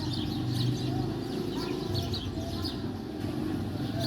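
A crowd of small birds chirping: many quick, short high notes overlapping, with a few lower calls, over a steady low rumble.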